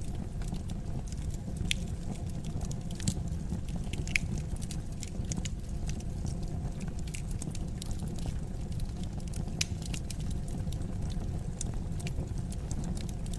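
Wood fire crackling in a fireplace: irregular sharp snaps and pops, a few louder than the rest, over a steady low rumble.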